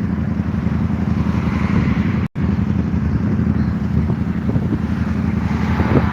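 Road traffic passing close by, a steady rumble of engines and tyres with vehicles swelling past around two seconds in and again near the end. The sound cuts out completely for a split second a little over two seconds in.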